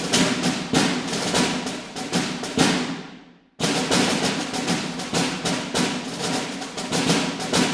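Percussion music of rapid wood-block and drum hits, in two passages that each fade out, with a short silent break about halfway through.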